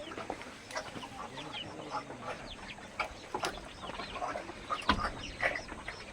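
A flock of chickens clucking, with many short calls overlapping, and a couple of sharp knocks about midway and near the end.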